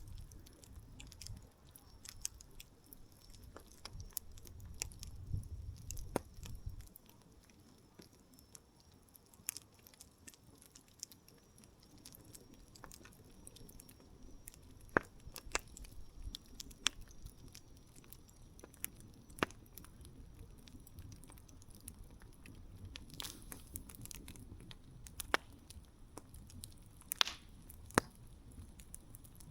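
Wood campfire crackling, with irregular sharp pops and snaps, several louder ones in the second half, over a soft steady hiss. A low rumble sits under it for the first several seconds, then fades.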